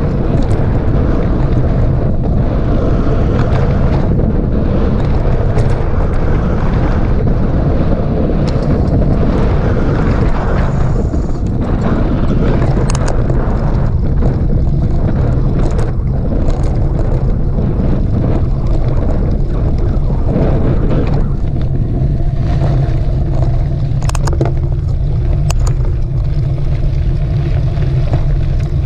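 Steady wind rumble on a camera microphone while a mountain bike is ridden on a trail, with a few faint clicks and rattles.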